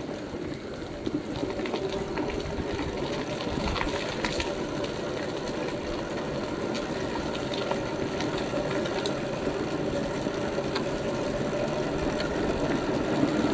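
Royal Enfield Bullet's cast-iron single-cylinder engine running steadily, a fast even beat, with scattered clicks and knocks over it.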